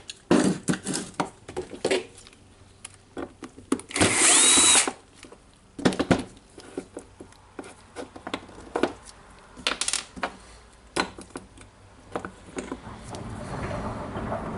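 Small metal parts of a rotary hammer's gearbox clicking and knocking as they are handled and fitted during reassembly. About four seconds in there is a brief harsh rasping noise, and near the end a steady rushing noise builds.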